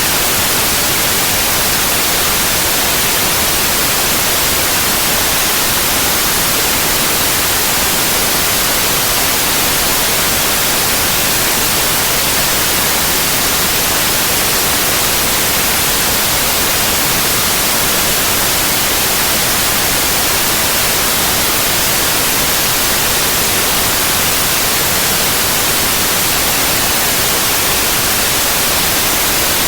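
Synthetic white noise: a steady, even hiss, strongest in the treble, with no changes or interruptions.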